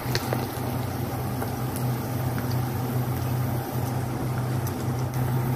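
Diced onion, garlic and pork pieces frying in oil in a wok while the onion caramelizes, over a steady low hum. A few light clicks of a plastic spatula against the pan near the start and midway.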